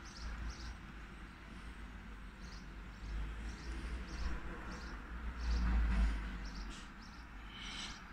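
Small birds chirping, short high chirps repeated every half second or so, over a low rumble of outdoor background noise.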